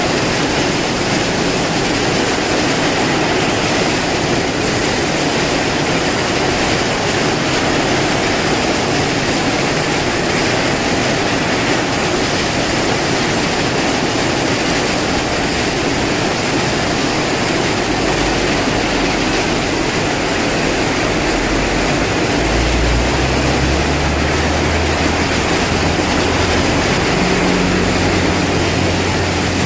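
Heavy rain pouring with strong wind, a loud steady rush of noise, and low rumbling gusts from a little past halfway.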